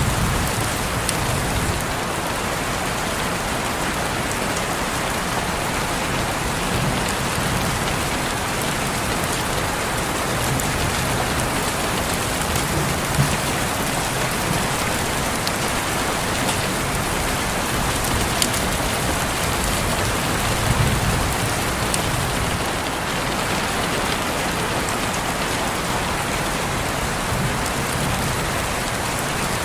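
Steady rain falling on a window: an even hiss, with now and then a single louder drop ticking.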